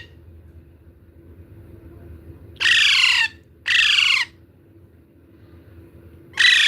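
Young pet parrot giving two harsh, squawking calls that fall in pitch, one right after the other, with another call starting near the end.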